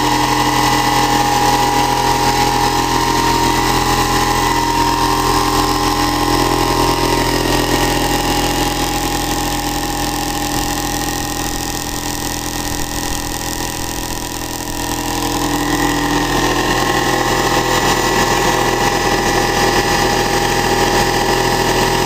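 Electric motor-generator set running steadily with a hum and whine made of several tones. It gets a little quieter from about ten seconds in, then picks back up about fifteen seconds in as its tones shift.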